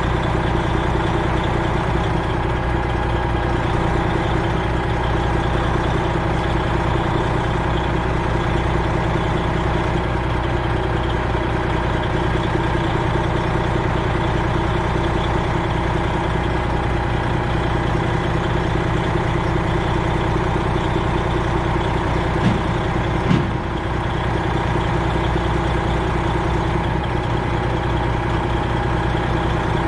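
Freightliner Classic XL semi truck's diesel engine idling steadily. Two short knocks, a little under a second apart, come about three quarters of the way through.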